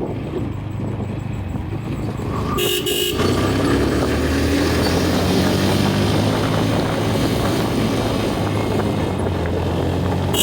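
Motorcycle engine running on the road, getting louder about three seconds in. A vehicle horn honks briefly about two and a half seconds in, and again at the very end.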